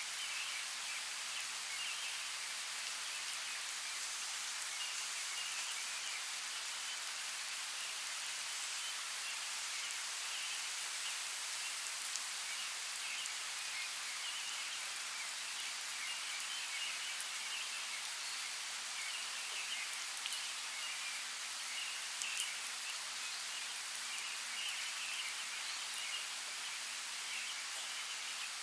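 Steady rain falling, an even hiss with a few sharper drop impacts ticking now and then.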